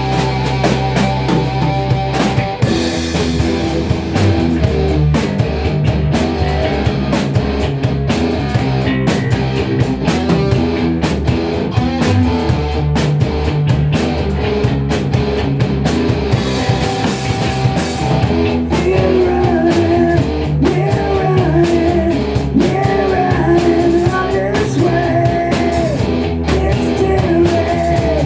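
Rock band playing a song with electric guitar, bass and drum kit, started from a count-in. A wavering melody line comes in about two-thirds of the way through.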